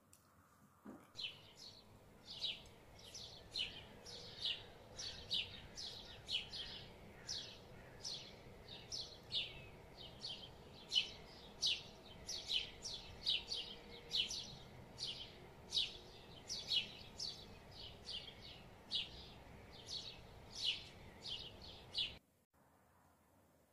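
A bird chirping over and over in short, high chirps, about two a second, over a faint steady background hiss. The chirping and the hiss start abruptly about a second in and cut off together near the end.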